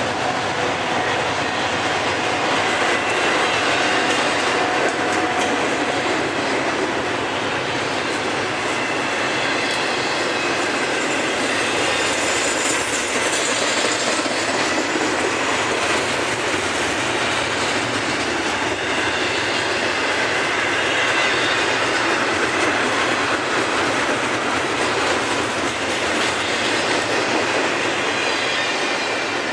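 Freight train cars rolling past: a steady noise of steel wheels on rail, with faint high wheel squeal.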